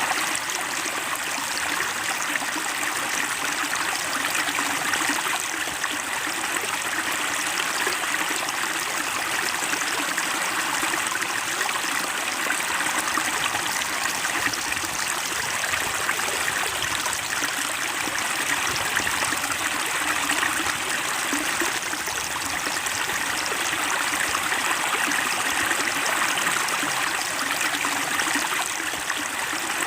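Flowing water of a small stream, a steady unbroken babbling and trickling.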